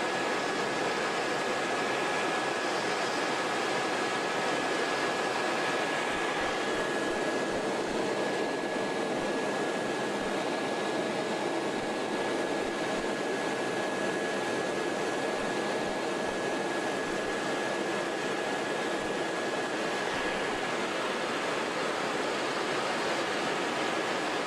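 Helicopter turbine and rotor noise heard from inside the cabin in flight: a steady rushing roar with a thin, steady high whine over it.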